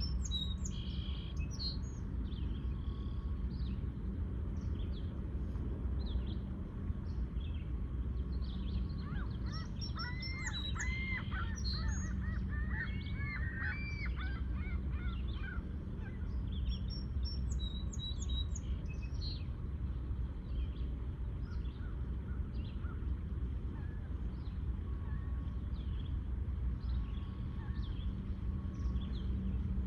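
Birds calling: a run of honking calls between about ten and fifteen seconds in, with scattered short, high chirps throughout, over a steady low rumble.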